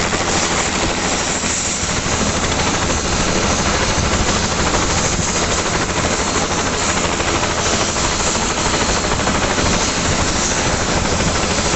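Helicopter turbine and rotor running loud and steady at close range, a dense even roar without change.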